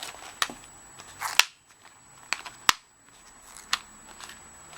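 Handling of a handmade paper journal just closed: a few short taps, clicks and brief paper rustles, the sharpest click a little past halfway.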